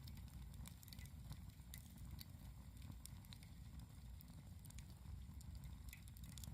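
Wood campfire crackling, with small irregular pops and snaps over a steady low rumble.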